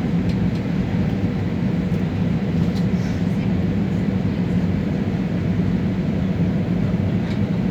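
Steady engine and airflow noise inside an airliner cabin on the approach to landing: an even, dense low rumble with a few faint ticks.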